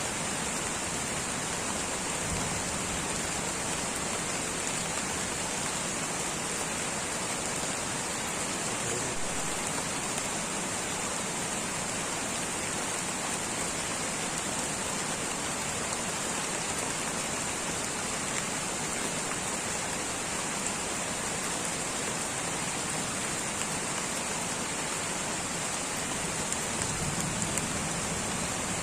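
Light rain falling steadily on rainforest foliage, an even hiss of drops with a brighter high-pitched band.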